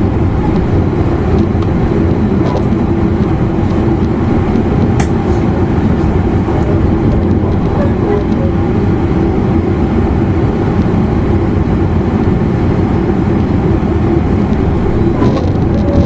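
Interior running noise of an E259 series Narita Express motor car (MoHa E259) travelling at speed: a loud, steady rumble of wheels and running gear with a faint steady tone, and a single sharp click about five seconds in.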